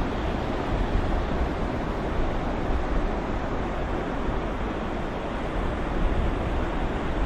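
Ocean waves soundscape: a steady, even wash of surf, heaviest in the low end, with no distinct wave breaks standing out.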